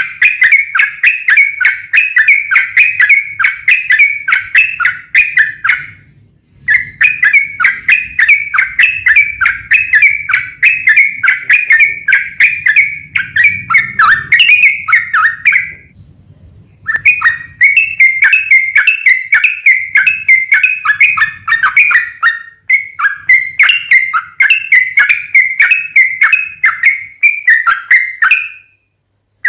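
Yellow-vented bulbul (trucukan) singing long, fast runs of repeated chattering notes, about four a second. The runs break off briefly about six seconds in and again about sixteen seconds in, and stop just before the end.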